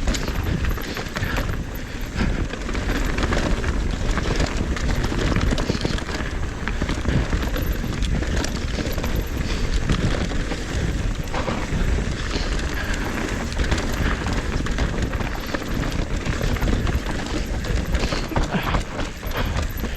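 A mountain bike descending a steep, rough dirt trail, heard from the rider's GoPro: tyres rolling and skidding over dirt and roots, the bike rattling and knocking over bumps, with steady wind noise on the microphone.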